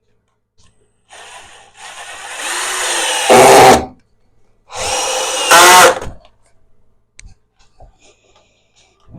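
Power drill running in two bursts, the first about three seconds long and the second about a second and a half, each getting louder toward its end.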